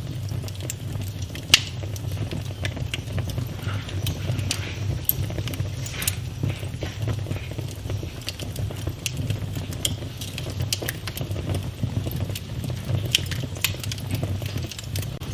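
Wood fire in a fireplace crackling, with scattered pops and snaps over a steady low rumble. One sharp pop about a second and a half in is louder than the rest.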